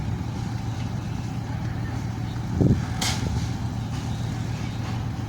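Heavy engine running with a steady low drone, broken about two and a half seconds in by a short low thump, followed at once by a brief hiss.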